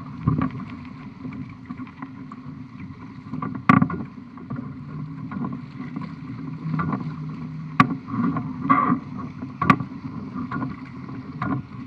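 Water rushing and slapping against the hull of a Topper Topaz 14 sailing dinghy under way, with several sharp knocks, the loudest about four, eight and ten seconds in.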